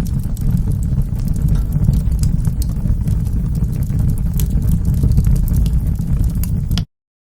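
Wood fire burning in a fireplace: a steady low rumble with scattered sharp crackles and pops. The sound cuts off abruptly to silence near the end.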